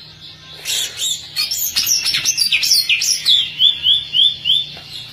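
Green leafbird (cucak ijo) singing a loud, fast, varied song of sharp chirps and sliding whistles, starting about half a second in and ending with a run of five repeated rising notes.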